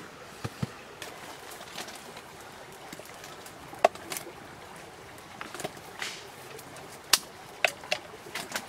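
A handful of sharp clicks and knocks scattered irregularly over a faint steady hiss, with several close together near the start and a cluster near the end.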